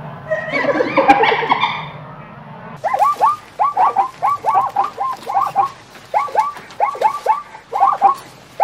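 Farm birds calling: a dense jumble of overlapping calls, then, after a cut about three seconds in, rapid short calls that fall in pitch, coming in quick runs of two to four.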